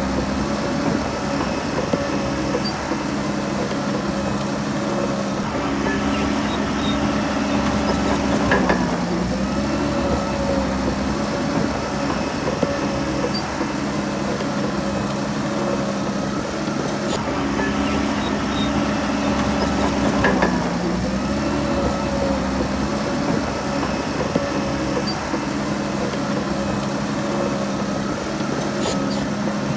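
Heavy diesel engine of a Shantui DH17C3 bulldozer running steadily under load. Its pitch dips and comes back up briefly twice, about a third and two thirds of the way through, with a few faint clanks.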